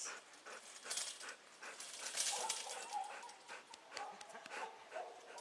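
A dog being given a belly rub: soft rustling and scattered small clicks, with a faint wavering dog whine from about two seconds in.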